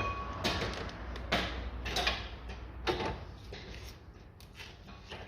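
Open-end wrenches working the pinch bolt of a steering knuckle: irregular metallic clicks and clinks, with a short metal ring right at the start, fading over the last couple of seconds.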